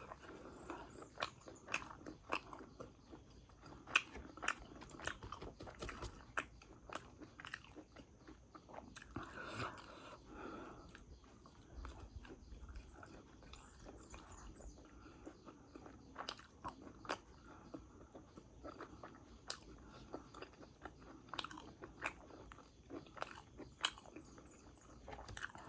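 A person biting and chewing crunchy fried momos, with frequent short crisp crunches and mouth clicks.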